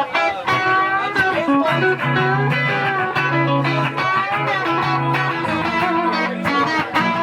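Live band playing an electric guitar solo: sustained, bending lead notes over a bass line and drum hits.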